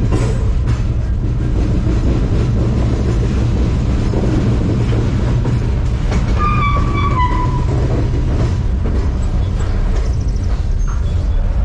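Freight train running steadily, heard from aboard a high-sided gondola car as a continuous low rumble. About six seconds in, a brief high squeal sounds and drops a little in pitch.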